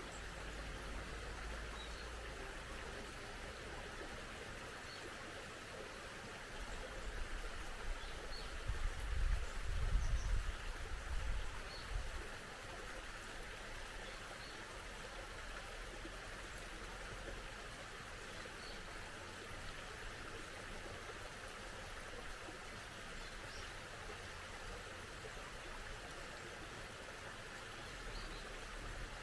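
Small mountain stream babbling steadily, with faint, brief bird chirps every few seconds. A low rumble swells and fades between about seven and twelve seconds in.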